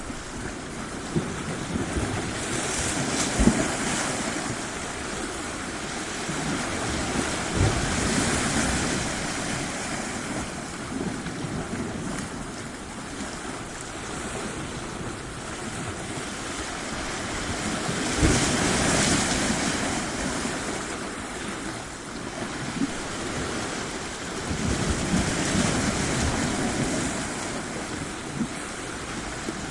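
Waves breaking on a shore, the surf swelling and easing about four times, with wind buffeting the microphone.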